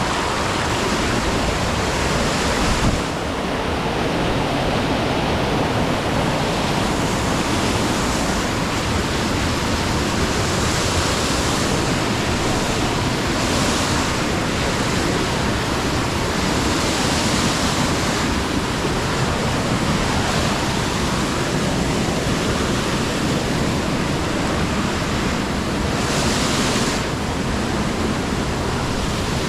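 Loud, steady rush of water noise with no pauses, swelling a little brighter now and then.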